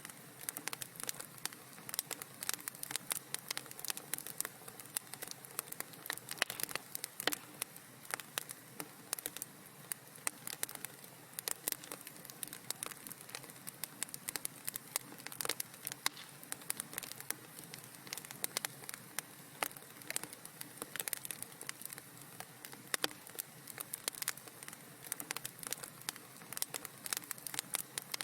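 Wood fire crackling in a fireplace: dense, irregular sharp pops and snaps over a steady soft hiss.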